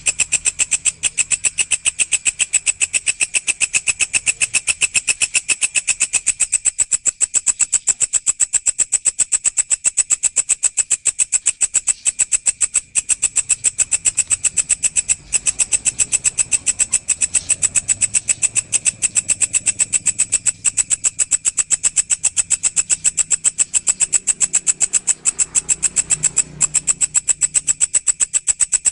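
Grasshopper (walang) stridulating: a continuous, rapid, evenly pulsed shrill chirring.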